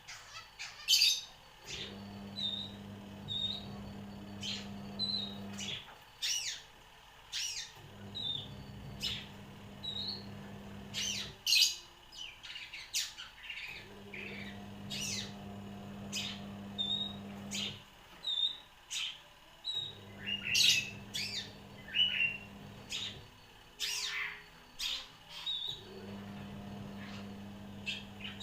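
A caged long-tailed shrike (cendet) singing a fast, scratchy run of sharp downward-sweeping notes and short chirps, its song stuffed with mimicked prenjak and fighting-sparrow calls. A low hum cuts in and out every few seconds behind the song.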